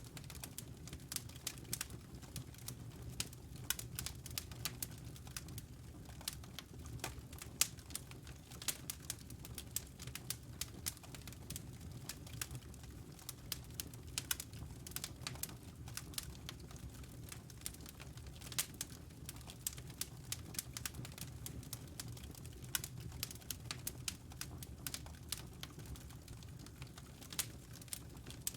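Wood logs burning in a fireplace: frequent, irregular sharp crackles and pops over a low, steady rumble of flame.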